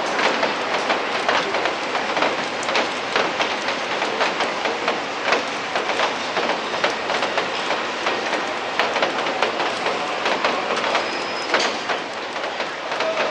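Steady rain, with many drops striking close to the microphone as sharp, irregular ticks over a constant hiss.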